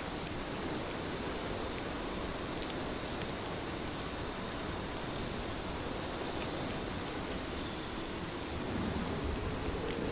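Heavy rain falling steadily: a dense, even hiss with scattered sharper drop ticks, growing slightly louder near the end.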